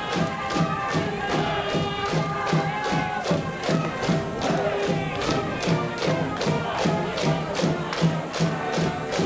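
A high school baseball cheering section: a brass band playing a fight song over a quick, steady drum beat, with the crowd chanting along.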